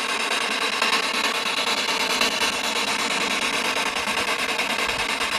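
Steady, fairly loud static hiss with faint constant tones underneath, unchanging throughout.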